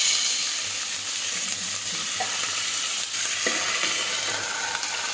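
Cauliflower and potato pieces sizzling steadily in hot oil in a kadhai. About three and a half seconds in, a steel lid is set down over the pan.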